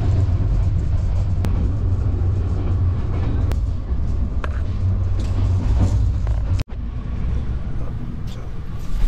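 Steady low rumble of a moving passenger train heard from inside a sleeper compartment, with a few faint clicks. The sound breaks off sharply for an instant about two-thirds of the way through and resumes a little quieter.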